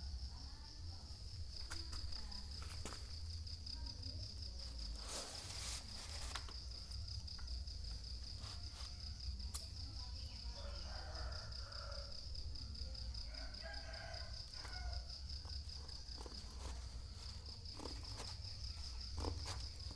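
A steady, finely pulsing high-pitched insect trill, like a cricket, runs unbroken throughout. Under it sits a low rumble, with scattered clicks and knocks.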